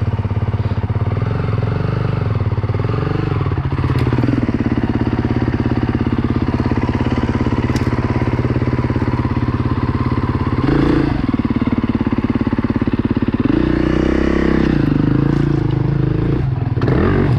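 KTM 350 EXC-F dirt bike's single-cylinder four-stroke engine running at low revs, with brief rises in revs about eleven seconds in and again a couple of seconds later.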